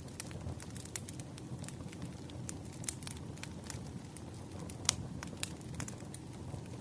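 Campfire burning: a steady low roar of the flames with frequent sharp, irregular crackles and pops of the wood, a louder pop about five seconds in.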